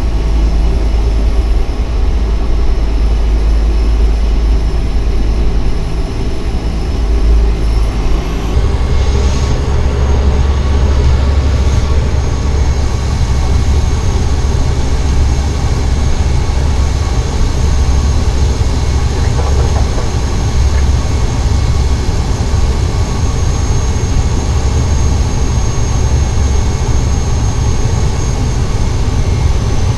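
Cessna 208 Caravan's PT6A turboprop engine and propeller running steadily, as heard inside the cockpit. About eight seconds in, the engine note changes and a high whine steps up.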